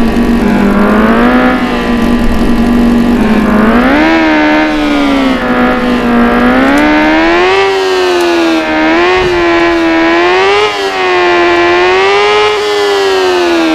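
Motorcycle engine held at high revs, its pitch rising and falling unevenly as the throttle is worked.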